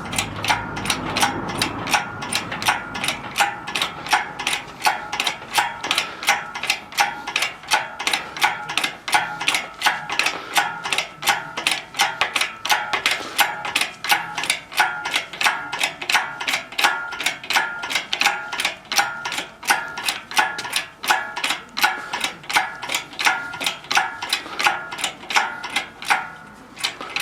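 Clock ticking sound effect: an even run of sharp ticks, about three a second, over a steady sustained tone, marking a time-skip.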